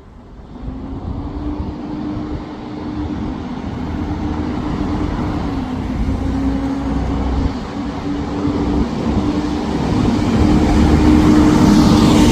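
A bus engine running with a steady whine, growing steadily louder as the bus draws closer, with a rush of road noise near the end.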